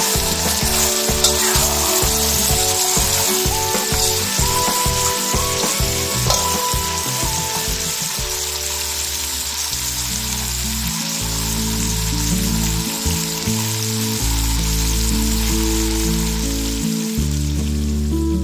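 Chicken pieces in sweet soy sauce sizzling in a pan, a steady frying hiss that fades out near the end. A spatula stirs and scrapes through the sauce in the first part.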